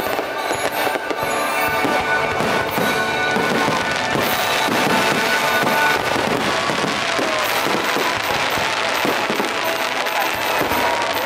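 Fireworks bursting and crackling in dense, continuous volleys over a patriotic soundtrack of American composers' music.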